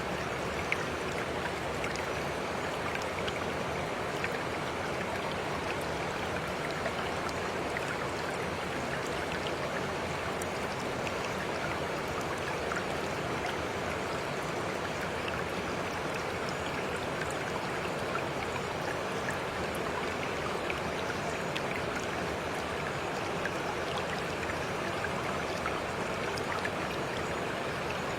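Flowing stream: a steady rush of running water with small scattered splashes and drips.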